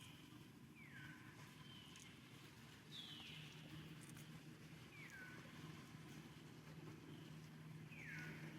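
A baby monkey calling faintly: short high-pitched cries that each slide down in pitch, repeated about every one to two seconds.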